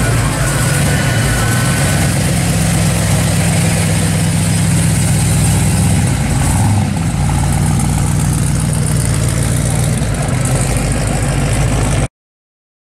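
A 1969 Chevrolet Chevelle SS's V8 idling as the car rolls slowly past: a steady, loud low rumble whose tone shifts about halfway through as it goes by. The sound cuts out abruptly near the end.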